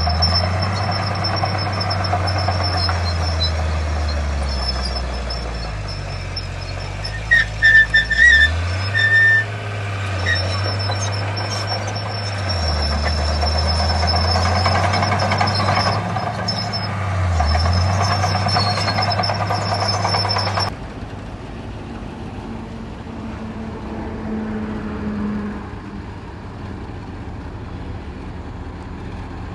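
Diesel engines of heavy earthmoving machinery running under load, the engine note rising and falling as the revs change. A few short high beeps sound about a third of the way in, and about two-thirds through the sound drops abruptly to a quieter, steadier engine hum.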